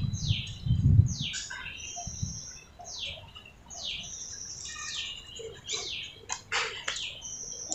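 Small birds chirping and twittering in quick, repeated falling calls. There are two low thuds, one at the start and one about a second in.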